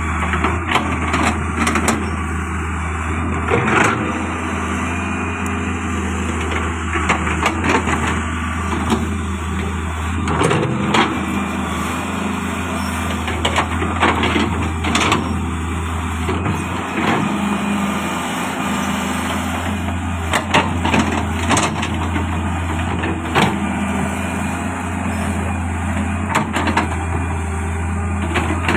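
Hitachi hydraulic excavator's diesel engine running steadily while the machine works, with irregular sharp knocks and clanks.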